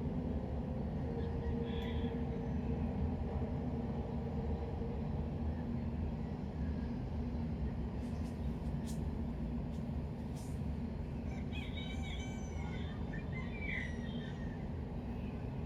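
Steady low ambient rumble, with a few short high chirping calls about two seconds in and again from about twelve to fourteen seconds, and a few faint clicks between them.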